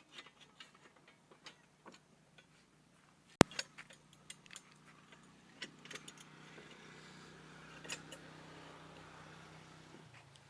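Scattered light clicks and taps with one sharp knock about three and a half seconds in, then a faint steady hum in the second half.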